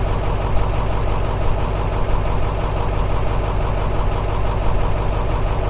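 Motorcycle engine idling steadily, a dubbed-in sound effect for a Bullet-style motorbike.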